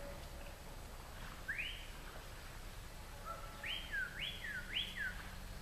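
A bird calling in the woods: a single arching whistled note, then three quick ones in a row near the end.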